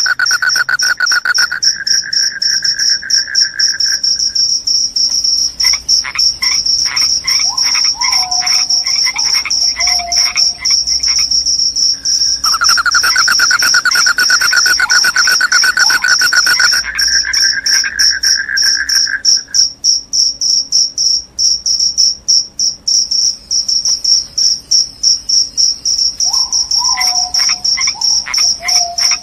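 Crickets chirping: one keeps up a continuous, fast-pulsed high trill, while a second, lower trill stops a few seconds in, returns about halfway and stops again a few seconds later. Short calls with falling notes come between them, once in the first half and again near the end.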